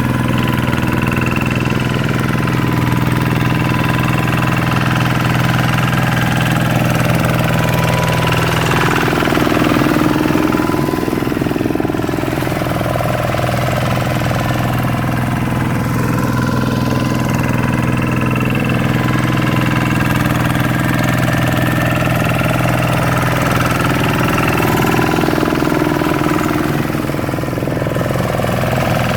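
Kubota RV125-2 single-cylinder diesel engine of a two-wheel hand tractor running steadily, its note shifting briefly twice.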